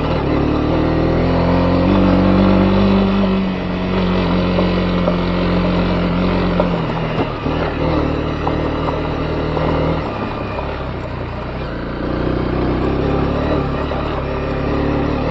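Honda CB250R's single-cylinder engine running while riding on a gravel forest road, revs rising and falling in steps as it shifts, over tyre and road noise.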